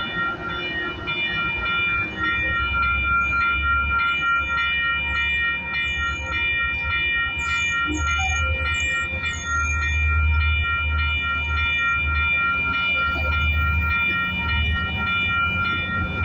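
Metrolink commuter train pulling out past the platform: bilevel passenger cars rolling by with a low rumble that builds as the MP36 diesel-electric locomotive at the rear draws near, a steady high ringing tone over it throughout, and a few short high squeaks about halfway through.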